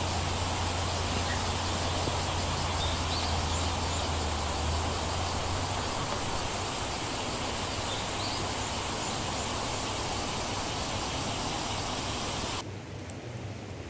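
Steady hiss of rain falling outdoors, with a low rumble underneath for the first few seconds. Near the end it drops suddenly to a quieter, duller rain sound.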